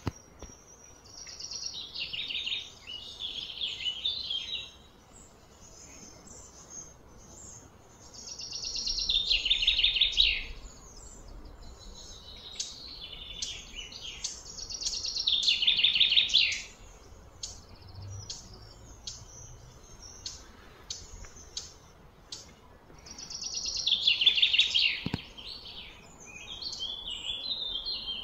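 A bird singing in loud, rapidly pulsed phrases of two to three seconds, four times, with short high chirps between the phrases.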